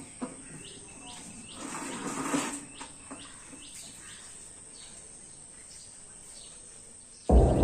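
Small birds chirping again and again in short, hooked calls over faint outdoor background noise, with a brief rushing swell about two seconds in. Loud music cuts in suddenly near the end.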